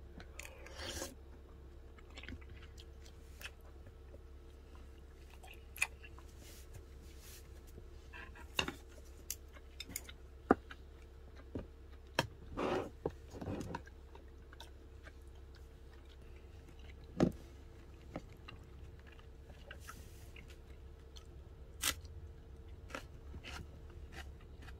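Close-up eating sounds: chewing and biting mouthfuls of cup dumpling soup and a green chili pepper, with scattered sharp clicks of a metal spoon against the paper cup. A low steady hum runs underneath.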